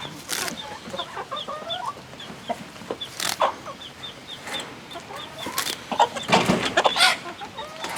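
Laying hens clucking and cackling, with a steady run of short high chirps about three or four times a second. A few sharp knocks, the loudest near the end.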